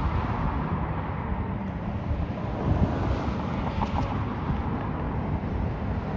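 Steady low rumble of wind buffeting the microphone, with the hum of vehicles running underneath.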